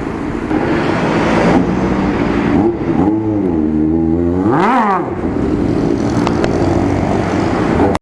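Honda CB1 (NC27) 400 cc inline-four engine running during a test run after engine work, with a short rev that rises and falls about three seconds in and a sharper blip of the throttle near five seconds, over a steady engine note.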